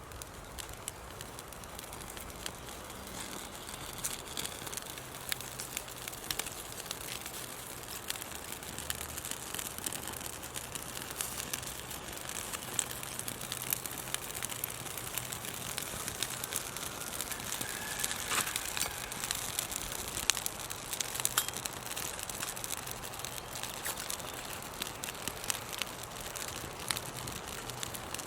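Small wood campfire crackling, with many sharp pops and snaps over a steady hiss that grow busier about halfway through.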